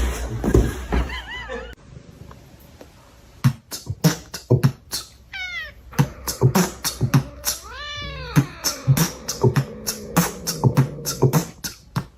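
A cat meowing twice, a short call about halfway through and a longer, arching one soon after, over a quick run of sharp clicks and low thumps.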